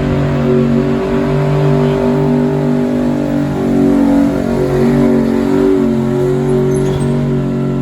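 Gasoline pickup truck engine held at high revs under heavy load while pulling a weight sled, its pitch holding nearly steady with slight wavers.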